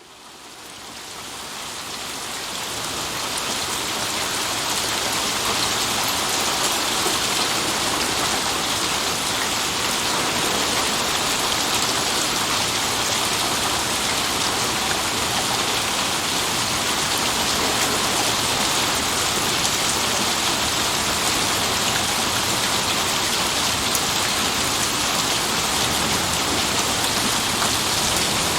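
Rain falling steadily, a dense even hiss that fades in over the first few seconds.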